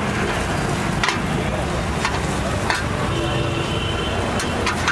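An omelette sizzling in a pan over a gas flame, with three sharp clicks of a metal spatula against the pan: about a second in, near the middle, and near the end.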